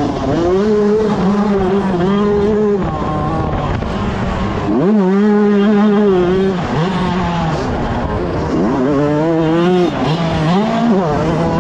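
125cc two-stroke motocross bike engine revving hard under racing throttle, its pitch holding, climbing and dropping off several times as the throttle is opened and closed, with a sharp rev-up about five seconds in.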